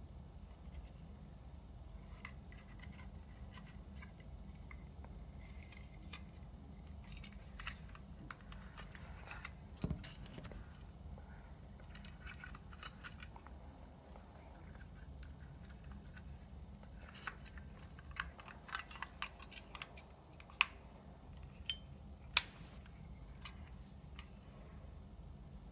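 Scattered small clicks and light rattles of hand-handled parts over a steady low hum. The clicks come in two clusters, with two sharper clicks near the end.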